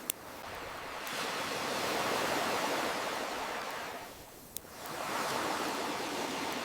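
Ocean surf washing in and drawing back in slow swells. Two sharp pops from a crackling wood fire come over it, one right at the start and one about four and a half seconds in.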